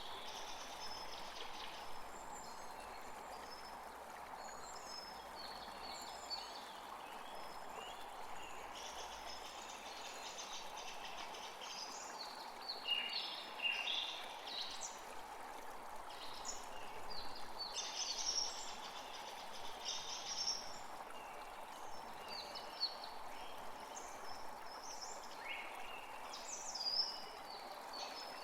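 Several songbirds singing and calling in short chirps and trills, busiest in the middle and again near the end, over a steady rushing background sound.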